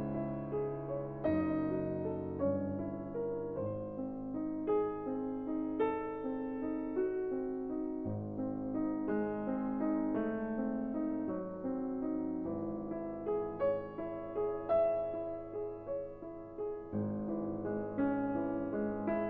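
Piano music: a melody of single notes over held low notes.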